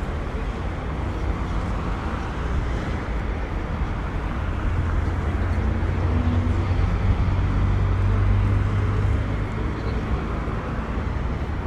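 City street traffic: motor vehicles running past with tyre noise, a low engine rumble swelling in the middle and easing off near the end.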